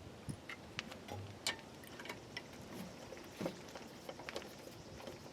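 Faint, irregular metallic clicks and ticks as M8 bolts are threaded in by hand, with a few louder clicks among them.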